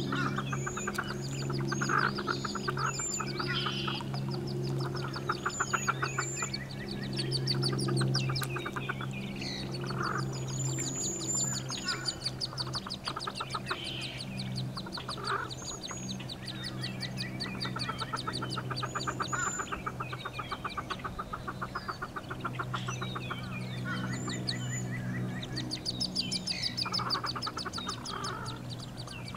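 Birds calling throughout: rapid pulsed trills about a second long and short high chirps, over a steady low drone.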